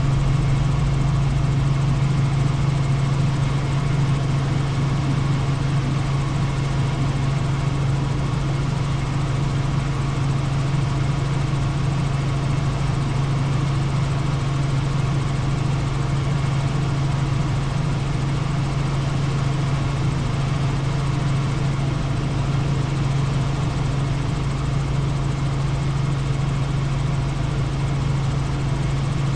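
Helicopter running steadily in flight: the rotor and turbine make an even, loud low hum with a fast pulsing beneath it.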